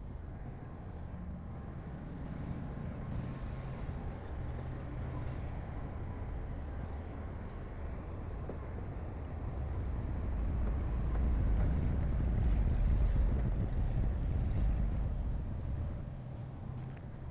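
Heavy diesel engine of construction machinery running with a steady low rumble, getting louder for a few seconds about two-thirds of the way through, then easing off.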